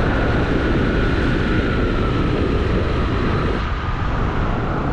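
Steady wind buffeting on the microphone and road noise from a moving bike on the ride.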